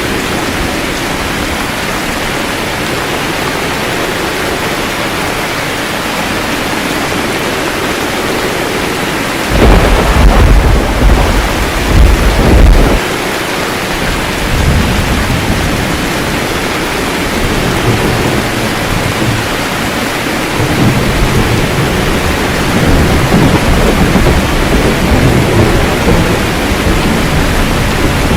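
Steady heavy rain with thunder. About a third of the way in comes a loud clap that rumbles for a few seconds, and lower rolling rumbles follow through the rest.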